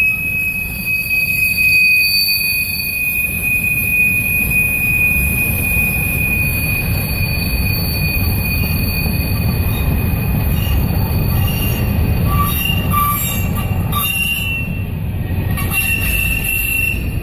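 Freight train boxcars rolling past, a steady low rumble of steel wheels on rail under a sustained high-pitched wheel squeal as the cars swing through the turnout onto another main track. Near the end, as the last cars pass, the squeal breaks into shorter squeals at several pitches.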